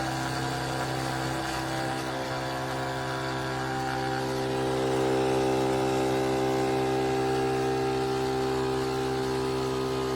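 Philips 4400 fully automatic espresso machine running through a cappuccino cycle: a steady mechanical motor hum that starts abruptly and grows slightly louder about five seconds in.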